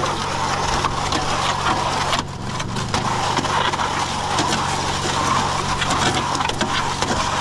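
Portable concrete mixer running: a steady motor hum under the gritty, crunching churn of wet concrete and gravel tumbling in the drum, dipping briefly about two seconds in.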